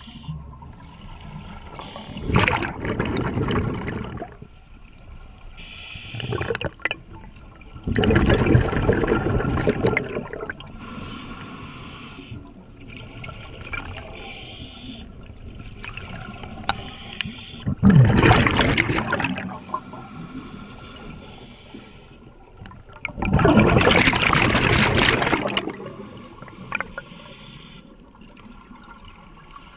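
Scuba diver breathing through a regulator underwater, with four loud rushes of exhaled bubbles, each a couple of seconds long and spaced several seconds apart.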